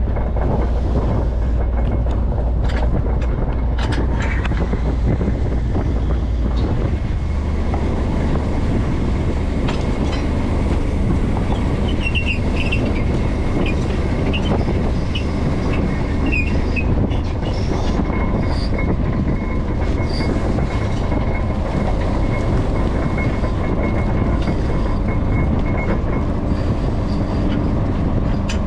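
Bottom trawler's diesel engine running steadily, a deep continuous rumble whose lowest note shifts slightly about seven seconds in. A few faint, short high squeaks sound over it midway.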